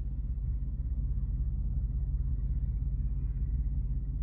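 Steady low rumble with no change in strength.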